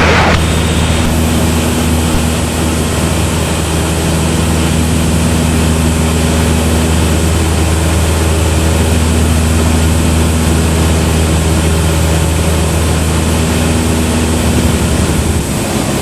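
Cessna 172's four-cylinder piston engine and propeller droning steadily in cruise, with a constant rushing hiss over it. The low drone eases slightly just before the end.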